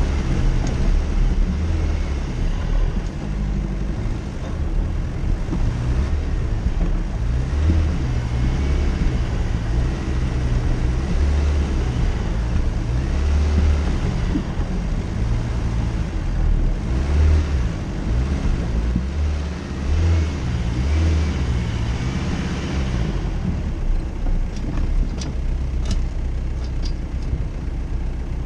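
Jeep Cherokee's engine running as the vehicle drives off-road, its low rumble rising and falling with the load. A few brief rushes of noise come through along the way, and a few sharp clicks near the end.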